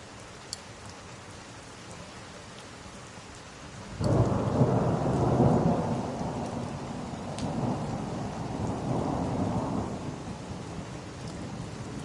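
Steady rain, with a thunderclap breaking in suddenly about four seconds in and rumbling for about six seconds before easing back into the rain.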